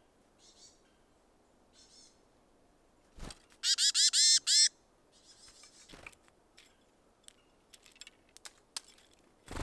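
Small songbird at a feeder giving a quick run of about five loud, harsh call notes. Faint high chirps come before it, and sharp knocks and taps around it.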